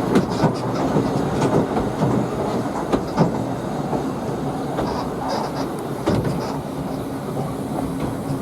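Narrow-gauge railway train running along the track: a continuous rumble and rattle with irregular knocks from the wheels over the rails, and a few brief faint high squeals from the wheels.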